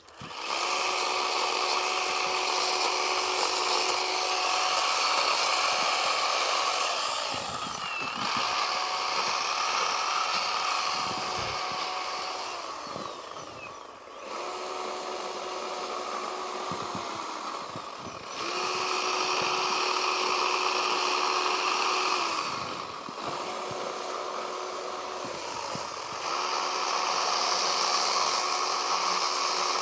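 Chainsaw carving a block of packed snow, revved up in repeated bursts of throttle and eased off briefly between them, about six times.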